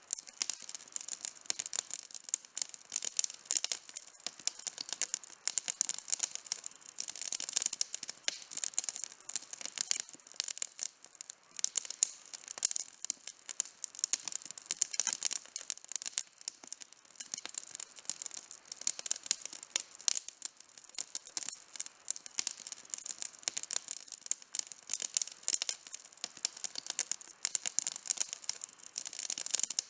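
Campfire crackling and snapping: a dense, irregular stream of small sharp pops from burning wood.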